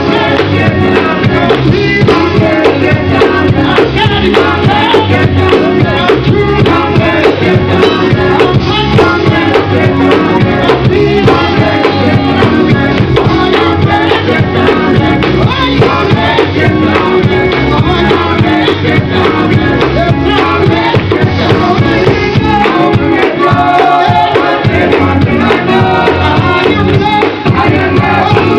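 Live gospel music: a vocal group singing with a full band, tambourine among the instruments.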